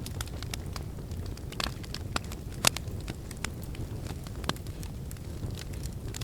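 Wood fire in a fireplace crackling, with irregular snaps and pops over a steady low rumble of the burning; the sharpest pop comes a little before the middle.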